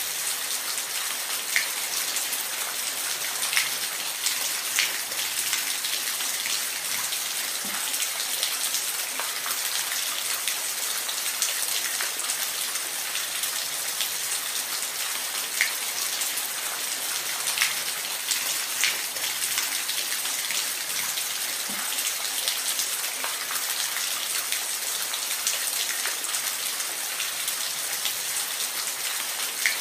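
Steady rain falling in a forest: an even hiss of rainfall with scattered louder individual drops landing nearby.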